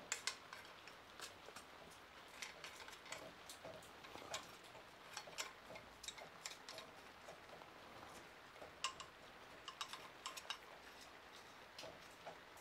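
Faint, irregular light clicks of small metal washers and fixings being handled.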